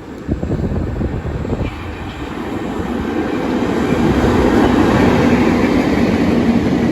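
A freight train hauled by two Class 92 electric locomotives running through the station, its rumble growing louder, with a steady hum coming in over the second half.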